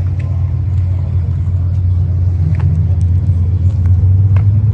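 Car engine idling with a deep, steady rumble, a few faint clicks over it.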